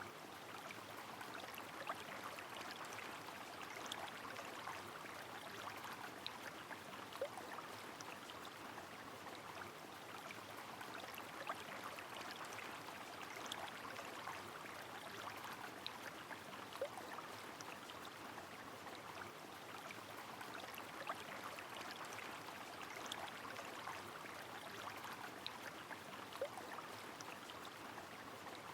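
Steady rain falling with a flowing river, an even hiss of water with many small drop ticks and a louder drip every few seconds.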